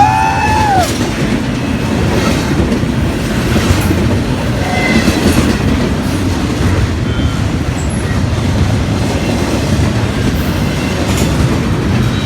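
Norfolk Southern freight train's cars rolling past close by: a steady loud rumble with wheels clacking over rail joints. A brief rising-and-falling high tone sounds at the very start.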